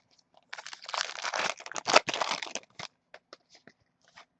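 Crinkling and crackling of plastic or foil packaging being handled with trading cards, for about two seconds, followed by a few small clicks and taps.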